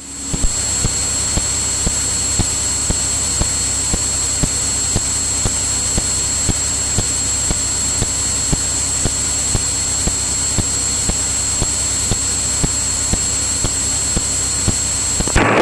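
Steady drone of a Cirrus single-engine piston aircraft's engine and propeller heard through the headset intercom, with a thin, constant high whine over a low rumble and faint regular ticks. It comes up right after a radio call ends and cuts off when the next one begins.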